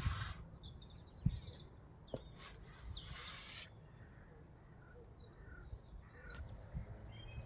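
A crow cawing outdoors in a couple of harsh calls a few seconds in, with a few faint knocks.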